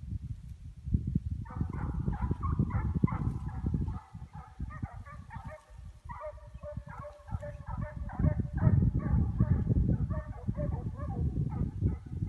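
Russian hounds baying in quick, repeated high yelps from about a second and a half in. This is the voice a hound gives when running a scent track on a chase. A low rumbling noise runs underneath.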